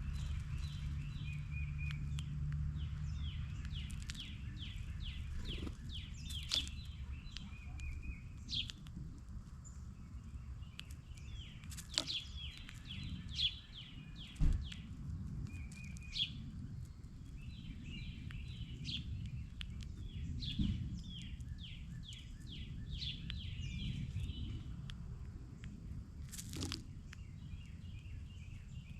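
A songbird singing repeated phrases of quick, down-slurred notes, several runs in a row, over a steady low rumble of background noise. A few sharp clicks come around the middle.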